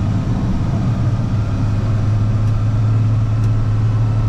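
Box truck engine and road noise heard from inside the cab while driving: a steady low drone.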